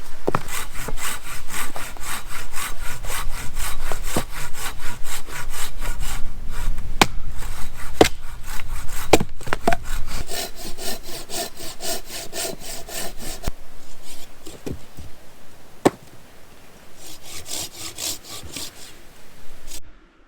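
Hand saw cutting dry dead wood in quick, even back-and-forth strokes, with a few sharp knocks of wood. The sawing stops about two-thirds of the way through, then starts again briefly near the end.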